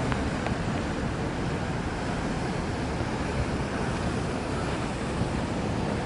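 Steady rushing roar of water jetting high into the air from a burst water main and pouring down.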